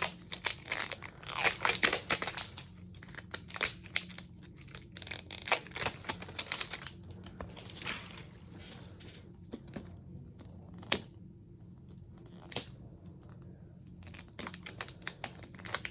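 Toy capsule packaging being torn open and crinkled by hand: dense bursts of crackling and tearing, sparser ticks in a quieter stretch in the middle, then crinkling again near the end.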